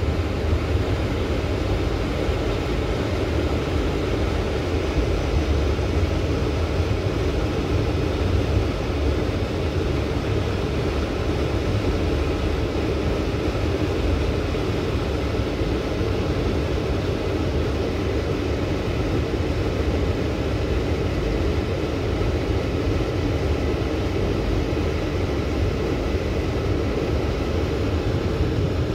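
Steady low rumble of a moving passenger train heard from inside the carriage, even and unbroken.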